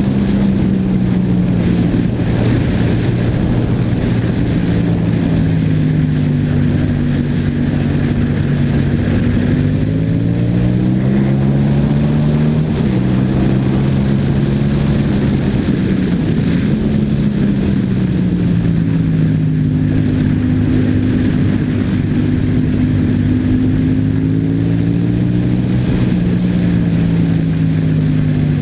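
Yamaha MT-07's parallel-twin engine through an Akrapovic exhaust, heard while riding, its note rising and falling several times as the throttle opens and closes.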